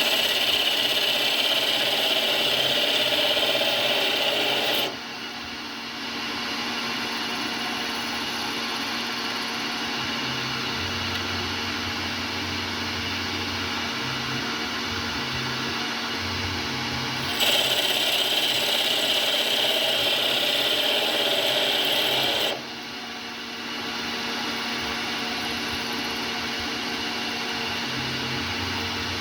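CNC lathe turning a 3D-printer hotend part: two cutting passes of about five seconds each, one at the start and one about two-thirds through, each louder with a high scraping edge, and the machine running steadily between them.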